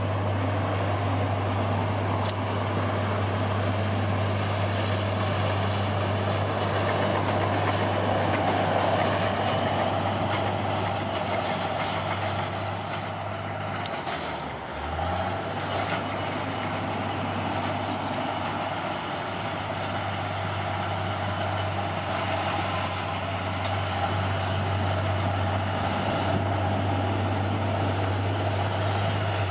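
Caterpillar D6R bulldozer's diesel engine running steadily; its note sags briefly about halfway through, then recovers.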